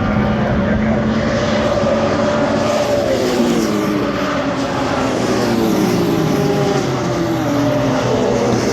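Racing car engines running hard on a circuit, loud and continuous. The pitch sweeps down and back up as cars pass and change gear.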